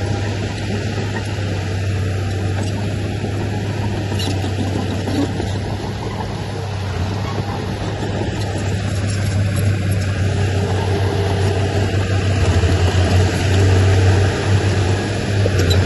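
Diesel engine of heavy earthmoving machinery running steadily, with a low drone that grows louder for a few seconds near the end.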